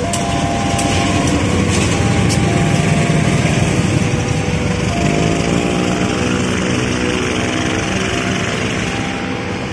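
Diesel-hauled passenger train passing close by at slow speed: the locomotive's engine drone and the rumble of the coaches' wheels on the track. The engine pitch rises about halfway through, and the level crossing's warning tones sound at intervals.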